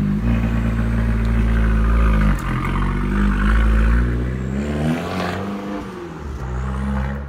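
Abarth 595 Competizione's turbocharged 1.4-litre four-cylinder engine accelerating as the car pulls away and drives off. The revs rise, drop at a gear change about two and a half seconds in, and rise again. A second shift comes about five seconds in, after which the engine fades as the car moves away.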